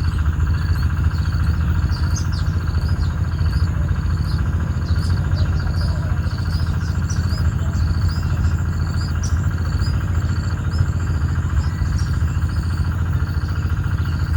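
Small birds giving short, high chirps again and again, about one a second, over a loud steady low hum.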